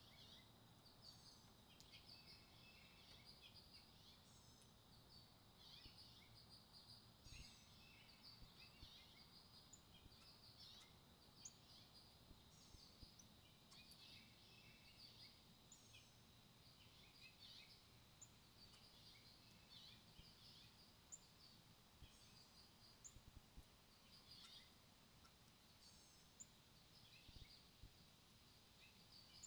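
Faint outdoor birdsong: many short, high chirps and tweets from small birds, scattered irregularly throughout, over a steady high-pitched tone in the background.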